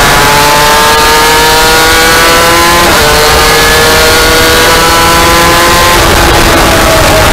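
2002 Aprilia RS250's two-stroke V-twin engine revving hard under acceleration, its pitch climbing steadily and dropping sharply at an upshift about three seconds in and again about six seconds in, with wind noise on the microphone.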